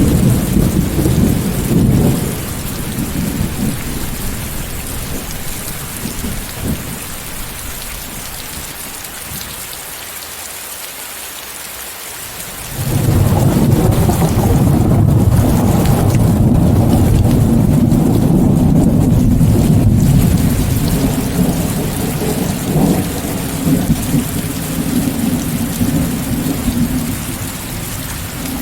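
Steady heavy rain hissing throughout. A rumble of thunder is dying away in the first couple of seconds. About halfway through, a loud, long roll of thunder comes in suddenly and rumbles on for some fifteen seconds before easing off near the end.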